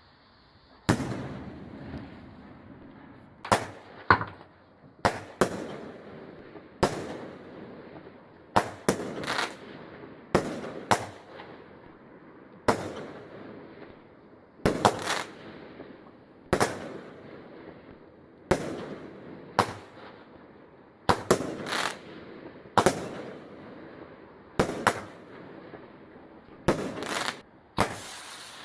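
Fireworks going off: a long run of sharp bangs at irregular intervals, about one a second, some in quick pairs or threes, each trailing off in an echoing rumble.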